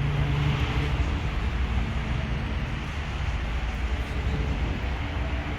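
Motorcycle engine running steadily with a low rumble, a little louder in the first second.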